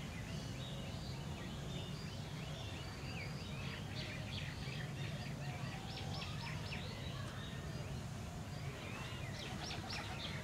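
Birds chirping in the background, a run of short high chirps over a steady low hum, with a second cluster of chirps near the end.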